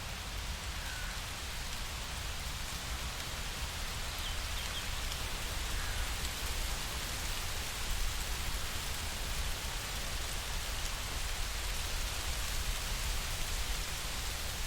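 Steady rainfall in a nature recording, an even hiss with a low rumble beneath it, and a few faint bird chirps.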